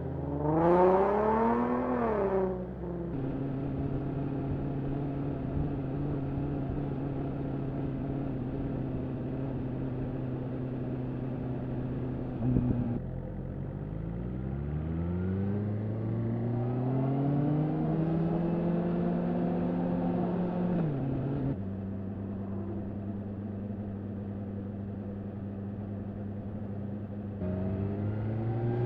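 BMW S1000RR inline-four engine through an Akrapovič slip-on exhaust while riding: a sharp rev rising and falling about a second in, then steady running with the pitch climbing slowly several times and dropping suddenly twice, as with gear changes.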